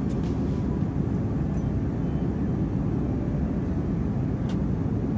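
Steady low rumble of an airplane cabin in flight: engine and airflow noise heard from inside the cabin, with one faint click about four and a half seconds in.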